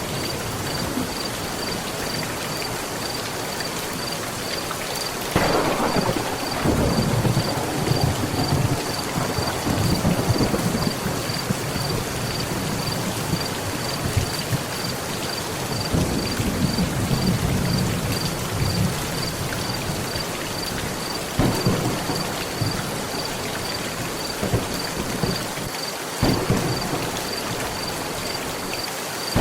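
Steady heavy rain on a metal roof, with thunder throughout. A crack about five seconds in rolls into long low rumbles, another rumble comes midway, and two sharper claps follow in the last third.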